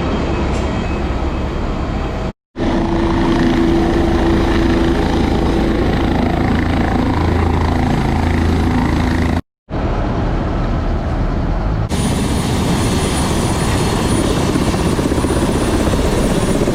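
Helicopter engine and rotor noise, loud and steady, in three stretches cut apart by brief silences about two seconds and nine and a half seconds in.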